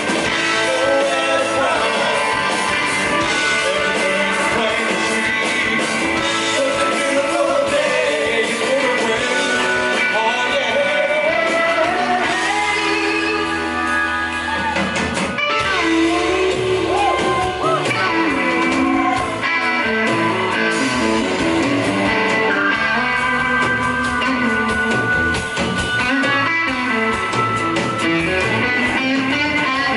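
Blues-rock band playing live, with electric guitar and singing; notes bend and slide in pitch throughout.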